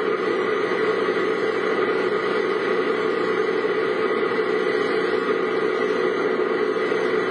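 Car driving at a steady pace: constant engine and road noise without change.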